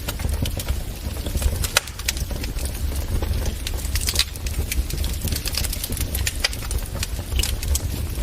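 Wood fire crackling in a fireplace: irregular sharp pops and snaps, many a second, over a low steady rumble.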